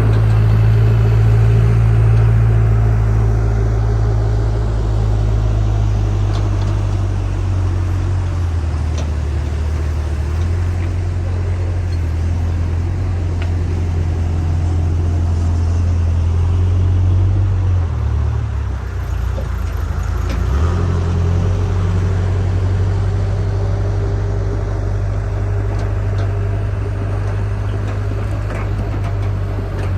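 JCB backhoe loader's diesel engine running steadily, its pitch shifting a few times as the engine takes and sheds load.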